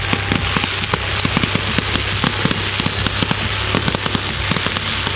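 Fireworks crackling: a dense, steady run of rapid pops and crackles, with a faint rising whistle about halfway through.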